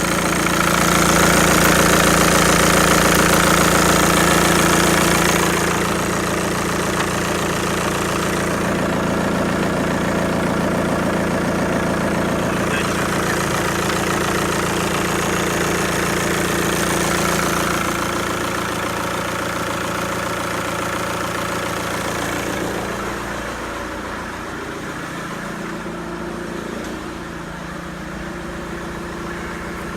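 Volkswagen-built 1.9 TDI (AHU) four-cylinder turbodiesel from a Ford Galaxy idling steadily. The sound gets quieter in steps about six seconds in, again near the middle, and once more later on.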